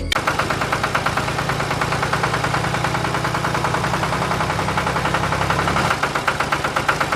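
Small engine running steadily with a fast, even pulsing beat. Its low hum drops slightly about six seconds in.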